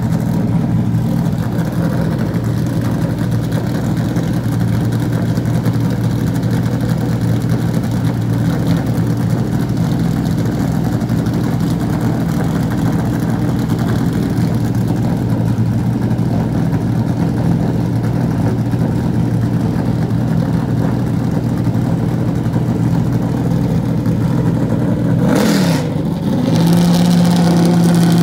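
NASCAR Cup car's pushrod V8 warming up, running at a steady fast idle. Near the end the revs dip briefly and are then raised and held at a higher, louder steady speed.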